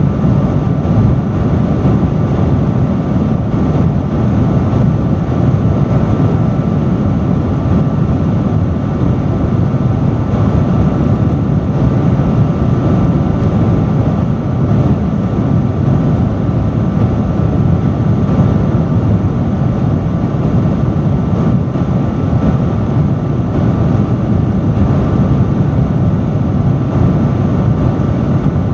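Industrial fan running steadily: a constant rush of air with a low hum and a faint steady whine on top, unchanging throughout.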